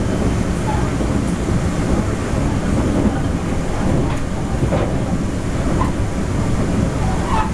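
TEMU1000 tilting electric multiple unit running at speed, heard inside the passenger car: a steady rumble of wheels on rail and car-body noise.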